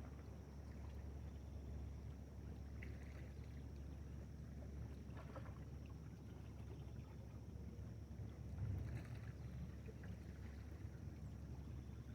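Steady low rumble of wind on the microphone, with a few faint brief sounds about three, five and nine seconds in.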